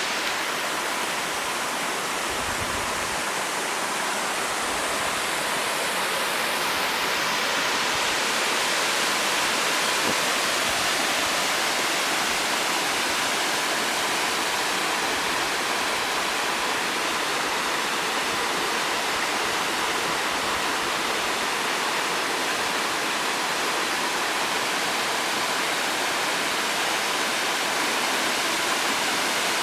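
Otonashi Waterfall's water falling and rushing in a steady roar.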